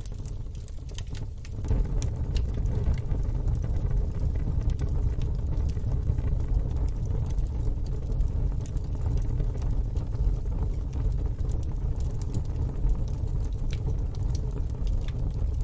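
Wood fire in a fire pit crackling, with scattered sharp pops over a steady low rumble that grows louder about a second and a half in.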